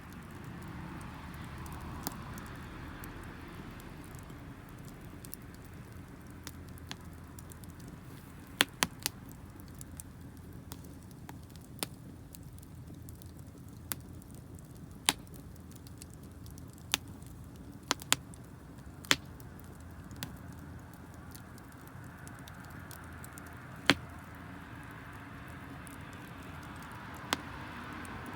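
Wood campfire burning: a steady low rush of flame with sharp pops and crackles at irregular intervals, about a dozen in all.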